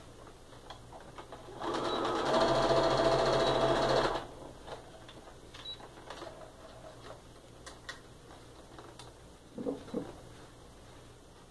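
Electric sewing machine running in one burst of about two and a half seconds, picking up speed slightly just after it starts, as it stitches a seam joining patchwork pieces. Then a few faint handling clicks.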